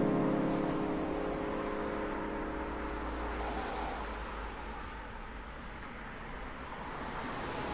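Road traffic noise: a steady low rumble with a hiss, slowly fading to its quietest a little past the middle.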